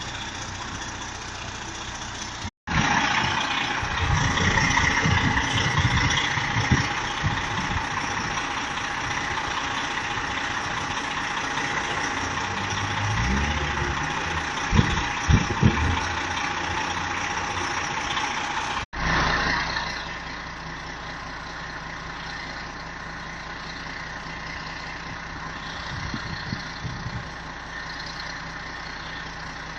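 Fire trucks' diesel engines idling steadily. In the middle stretch a loud rushing hiss sits over the engine, with a few low thumps near its end; the sound changes abruptly twice.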